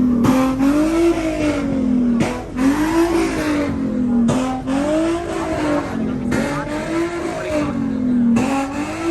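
A car doing donuts: its engine held at high revs with tire squeal. The pitch rises and falls about every two seconds as the car circles.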